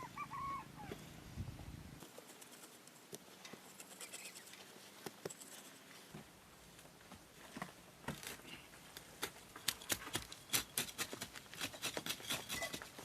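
A brief bird call at the start, then scattered clicks that become a rapid run of sharp taps and clicks from about eight seconds in.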